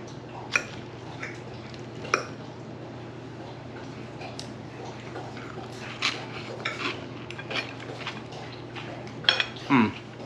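A fork clinking and scraping against a plate in scattered single clicks as someone eats a salad. A short falling voice sound, like an "mm", comes near the end.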